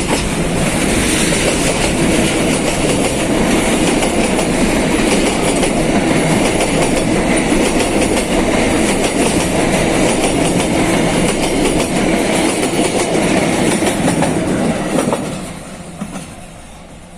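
Container freight train's wagons rolling past loudly, wheels clicking over the rail joints. The sound drops away sharply about fifteen seconds in as the train passes.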